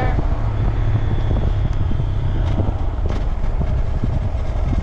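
Motorcycle engine running, with wind noise on the microphone, a steady low rumble.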